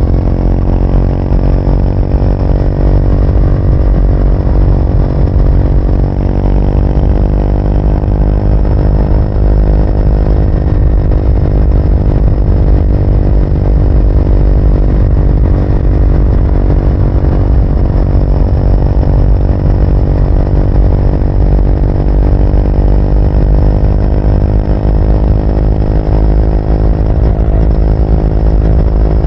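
Triumph Speed 400's single-cylinder engine and exhaust running while the motorcycle is ridden, the engine note holding fairly steady with a slight rise in pitch a few seconds in.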